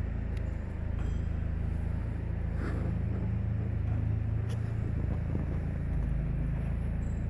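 A used Kia car engine idling steadily, with a slight shift in its note about six seconds in.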